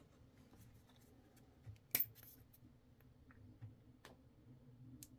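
Faint handling of a plastic Moen 1225B shower cartridge as grease is put on it, with one sharp click about two seconds in and a couple of lighter ticks later.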